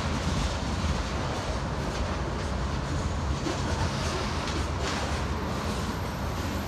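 Freight train cars rolling past: a steady rumble with wheels clicking over the rail joints.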